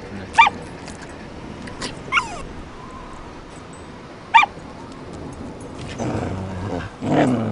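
A dog giving three short, sharp yips spread a couple of seconds apart, then a longer, lower vocalization near the end.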